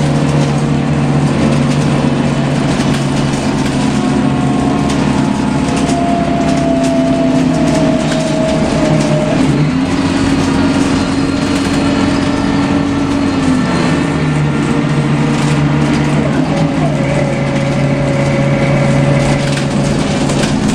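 Scania L94UB CNG bus running under way, heard from inside the cabin: a steady engine drone with a high whine gliding slowly over it. The engine note steps up about ten seconds in and drops back a few seconds later.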